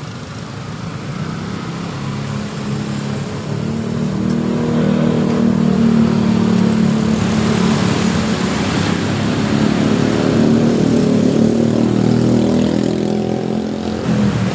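A motor vehicle's engine running close by on the road, growing louder about four seconds in and holding steady for most of the rest, with a hiss of road noise in the middle.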